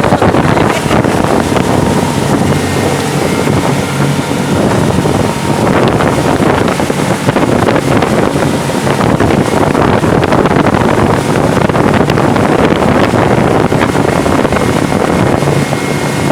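Motorboat engine running steadily at speed while towing a banana boat, with wind buffeting the microphone.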